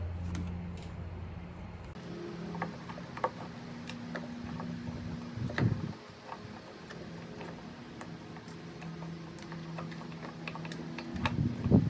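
Scattered small clicks and taps of a bolt and small metal parts being handled and fitted on a Stihl BR340 leaf blower, with a louder knock about halfway through, over a low steady hum.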